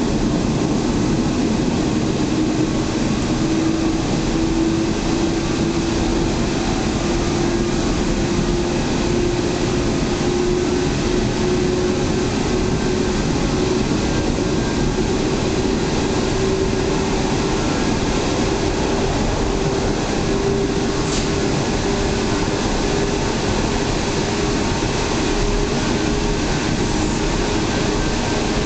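Hokuriku Line local electric train heard from inside the carriage, running through a tunnel: a steady, loud rumble of wheels on rail with a motor whine that rises slowly in pitch as the train gathers speed.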